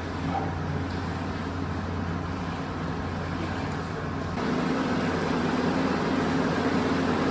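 A steady low mechanical drone with a hiss over it, stepping up louder about four and a half seconds in.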